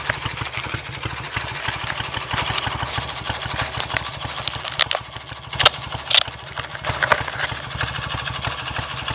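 BSA A65 650 cc parallel-twin motorcycle engine idling with an even, regular beat. A few sharp clicks sound over it around the middle.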